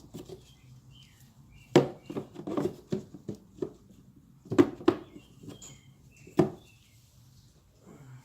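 Sharp knocks and clatters of plastic parts being handled: a new air filter and the Toyota Camry's plastic air-filter box being fitted and knocked about, with short chirps between the knocks.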